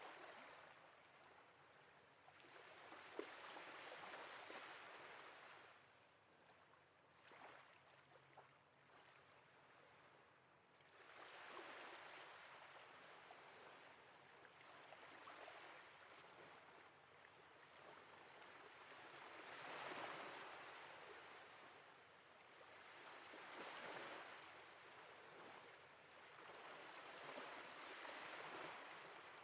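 Faint sea waves washing in and receding, swelling and fading every few seconds.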